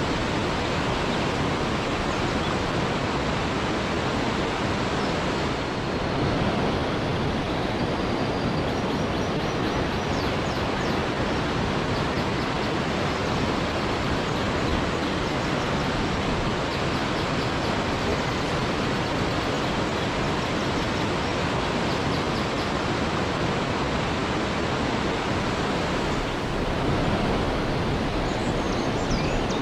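Waterfall: a steady, dense rush of falling water with no let-up. Now and then faint short high chirps sit above it.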